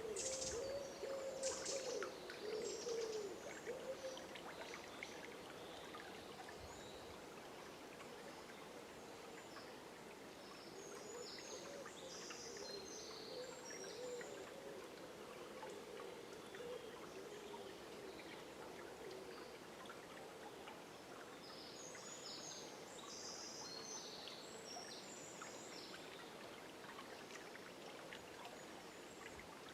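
A river flowing steadily, with birds singing in bursts of short high chirps now and then and a lower wavering call beneath them.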